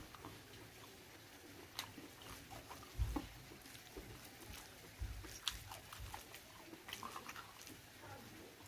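A person chewing and biting pork close to the microphone: scattered wet mouth clicks and smacks, with a few low thumps, the loudest about three seconds in.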